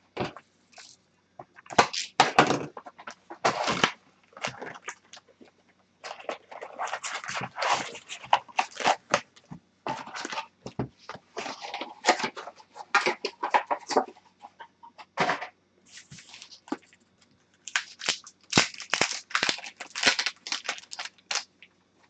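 Hockey trading card packs and cards being handled by hand: crinkling, tearing and sliding sounds with clicks and taps, coming in irregular bursts with short pauses.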